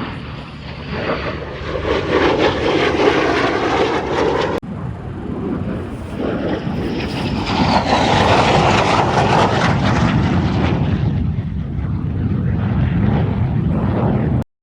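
Airplane engines flying past, loud, with the pitch falling as they go by, twice. The sound breaks off abruptly for a moment about four and a half seconds in.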